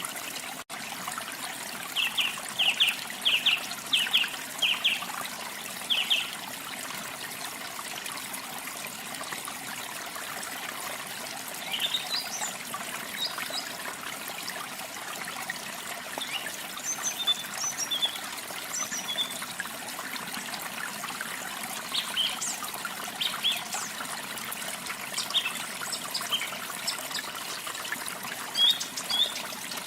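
Steady flowing water of a waterfall, with songbirds calling over it: a quick run of repeated high notes from about two to six seconds in, then scattered high chirps through the rest. A momentary dropout comes just under a second in.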